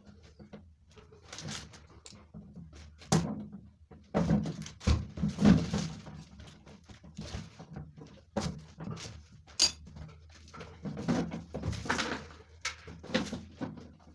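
Irregular knocks, clunks and clicks of hand work, with a few louder thuds about four to six seconds in, echoing in a small room.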